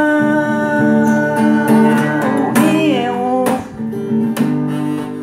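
Devotional song with acoustic guitar: a singer holds a long note, then sings a short wavering run, over steady guitar strumming.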